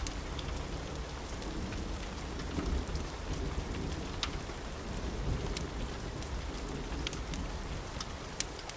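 Steady rain falling, with low rolling thunder rumbling underneath and scattered sharp clicks and pops.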